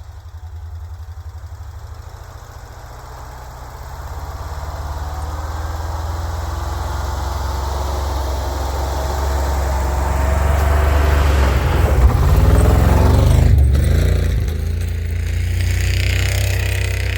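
1967 International 1200 truck's engine idling with a steady low hum. A louder rushing noise grows over several seconds on top of it and breaks off sharply about thirteen and a half seconds in.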